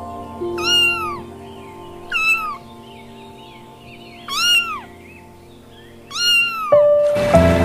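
An animal gives four short, high calls, each rising then falling in pitch, about two seconds apart, over soft background music. Near the end the music gets much louder.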